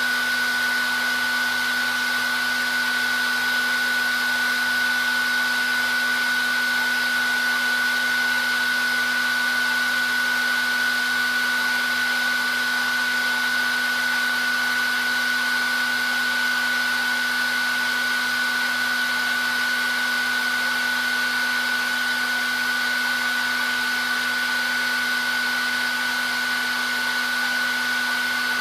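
Hair dryer running steadily, an even rush of blowing air with a constant high whine from its motor and fan.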